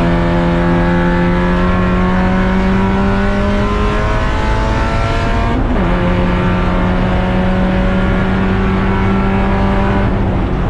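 Race car engine under full throttle, pitch climbing steadily as it pulls through the gears, with an upshift about halfway through and another near the end.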